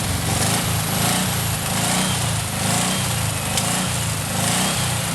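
Air-cooled flat-four engine from a 1968 Porsche 912, out of the car and running on a test, its note swelling and easing in a regular rhythm about twice a second.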